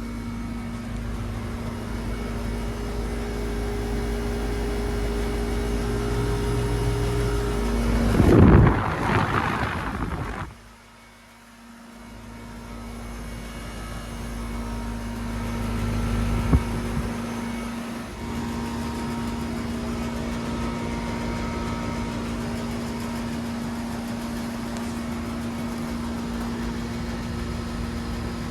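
Carrier TECH2000 38YKC heat pump outdoor unit running, its compressor humming at a steady pitch under the fan's noise. About eight seconds in there is a brief loud rushing noise. Then the sound drops away for a moment and builds back up to a steady run, with a single click along the way.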